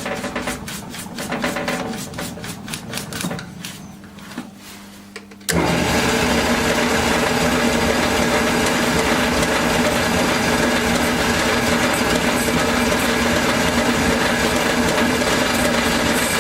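Fast, even ticking, then about five and a half seconds in a much louder workshop machine sound cuts in suddenly and runs steadily with a constant hum.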